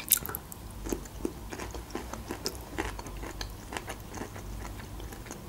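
Close-miked mouth sounds of a person biting and chewing food: a sharp bite at the start, then a run of small, irregular wet clicks and crunches.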